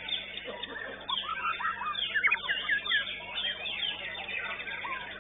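Several caged white-rumped shamas (murai batu) singing at once in a dense, overlapping chorus of rapid chirps and whistled phrases.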